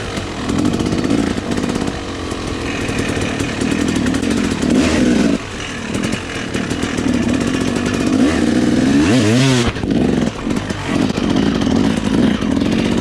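Small dirt bike engine running and revving up and down, with a quick rising rev about nine seconds in.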